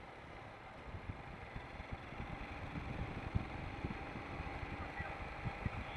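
Royal Enfield Himalayan single-cylinder motorcycle running steadily while being ridden, with road and wind noise and irregular low bumps on the microphone.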